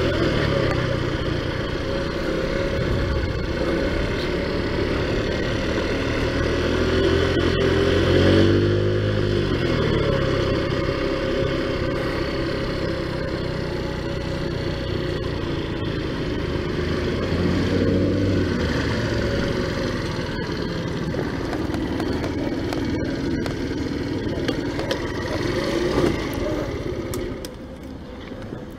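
Taotao Zummer 50cc four-stroke scooter engine running under way, its note rising and falling with the throttle, with a rise about eight seconds in. Near the end it goes quieter as the scooter slows.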